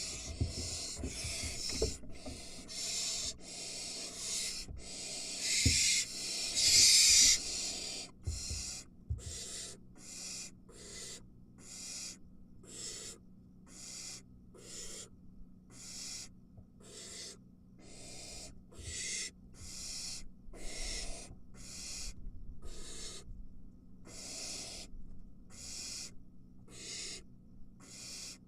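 Barn owl nestlings hissing: their begging 'snoring' calls. For the first several seconds the hisses come thick and loud with scuffling thumps, then they settle into a regular series of separate hisses about one a second.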